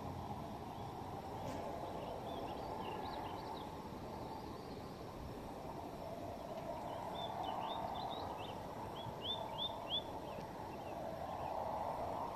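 A small songbird singing in quick runs of high, short chirps: once about two seconds in and again, longer, from about seven to ten seconds in, over a steady outdoor hiss.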